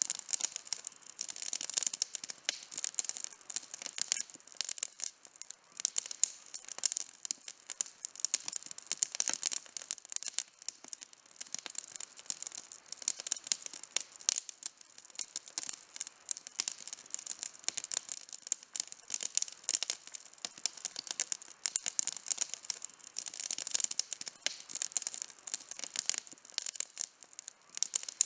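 Outdoor campfire burning, wood crackling and popping in a dense, continuous run of sharp snaps.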